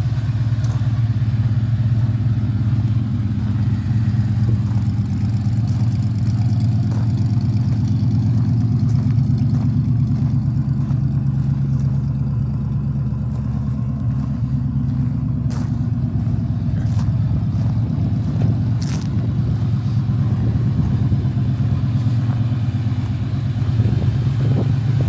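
Chevrolet 350 small-block V8 in a 1956 Chevrolet 3100 pickup idling steadily, with a few faint clicks.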